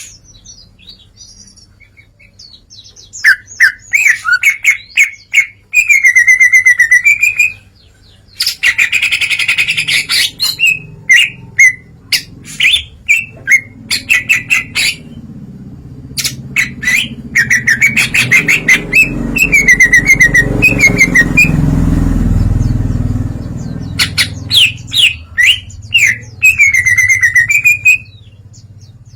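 Cucak ijo (green leafbird) singing loudly in full song, running through its repertoire of fast chirps, trills and repeated phrases in bursts with short pauses between. A low rumble swells and fades about two-thirds of the way through.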